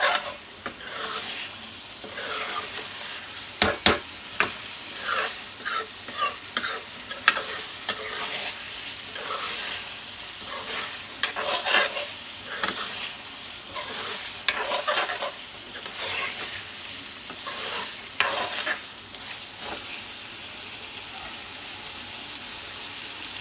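Chicken liver and gizzard frying in a kadhai with a steady high sizzle, while a spatula stirs and scrapes the pan with frequent short clicks.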